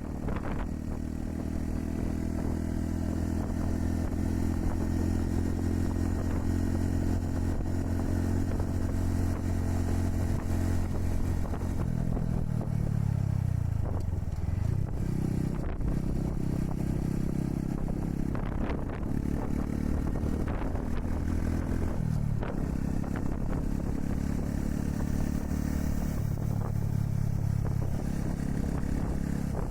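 Honda Super Cub 110's single-cylinder four-stroke engine running under way, with wind rushing over the microphone. The engine note drops away a little before halfway, climbs again, and changes pitch suddenly about three quarters of the way through.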